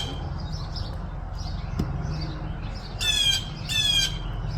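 Blue jay giving two short, harsh jeering calls about a second apart, past the middle: alarm scolding at a red-tailed hawk perched close by.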